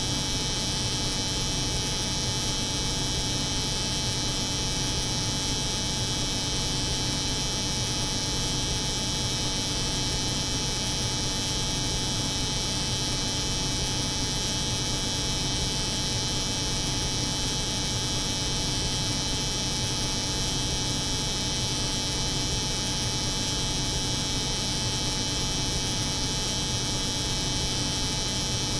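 Steady, unchanging buzzing hum of an electric hair clipper running, layered over the constant drone of a cold room's refrigeration machinery.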